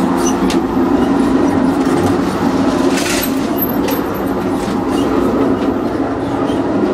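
Steady rumble and hum of a moving Amtrak passenger train heard from inside a car, with a few short clicks and rattles, the loudest about three seconds in.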